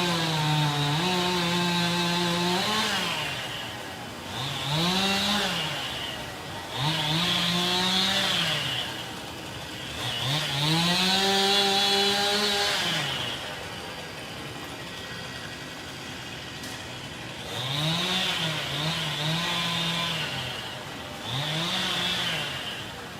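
Gas chainsaw revving to full throttle in about six bursts, each one to three seconds long, and dropping back to idle between them, as during cutting of an oak.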